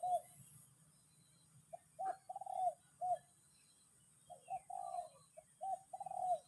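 A dove cooing in phrases of short, hooting notes, one phrase about two seconds in and another from about four seconds, with faint high chirps of small birds behind it.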